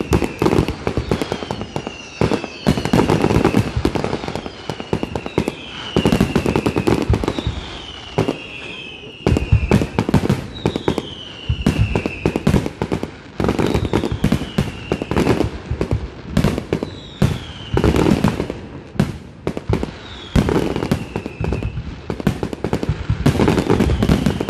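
Fireworks display: aerial shells going off in rapid volleys of bangs and crackle, with a whistle that falls in pitch repeating every second or two.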